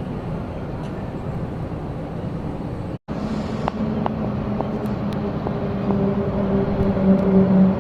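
Aircraft engine noise, a steady rumble with a low hum that grows louder toward the end, broken by a brief dropout about three seconds in.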